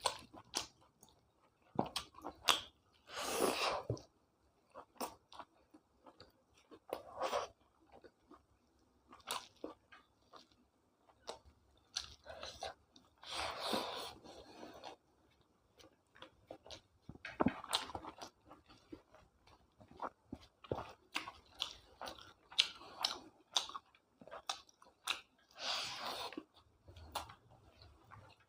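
A person chewing and biting food close to the microphone, in irregular bursts with occasional crunches.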